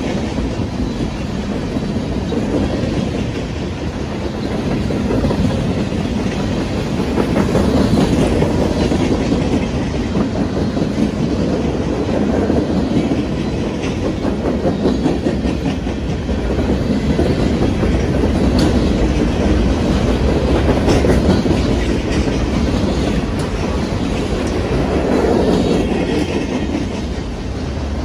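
A train's cars rolling steadily past, the wheels clicking over rail joints, the loudness swelling and easing every few seconds.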